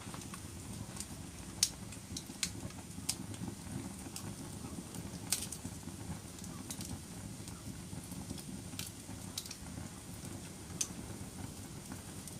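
Wood fire burning in a fireplace: a steady low rumble of flames with sharp crackles and pops at irregular moments, about one a second.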